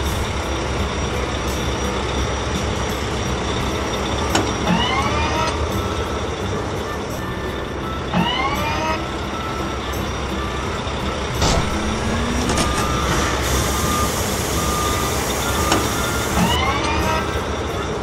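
Animated wheel loader's engine running steadily, a constant noisy rumble, with short rising chirps three times, a few seconds apart.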